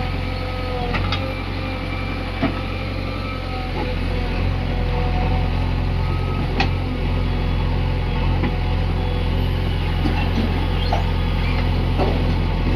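Heavy diesel engines of a backhoe loader and tractors running steadily, with a few short sharp knocks about a second in, near two and a half seconds, and past the middle.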